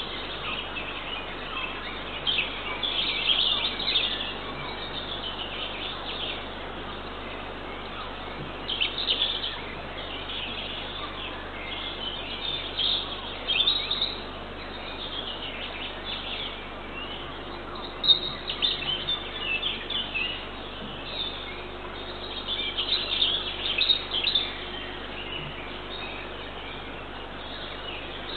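Small wild birds chirping and singing in irregular bursts over a steady hiss, heard through a forest nest camera's microphone.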